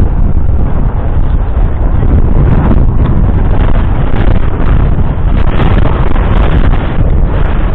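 14-litre six-cylinder diesel engine of a Fiat Versatile 44-28 articulated tractor running loud and steady at close range, with wind buffeting the microphone.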